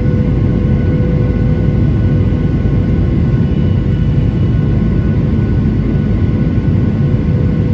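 Boeing 737-900ER jet airliner running steadily: a constant deep rumble of engines and airflow with several steady hum tones over it.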